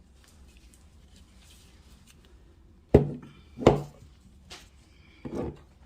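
Kitchenware knocked sharply twice, about two-thirds of a second apart, each knock ringing briefly, followed by a light click and a softer clatter: utensils and containers striking a dish while sauce is added to a casserole.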